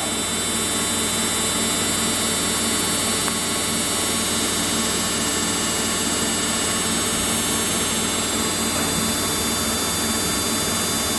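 Samsung front-load washing machine spinning its drum near the end of a rinse-and-spin cycle, a steady rushing noise with a low hum that holds even throughout.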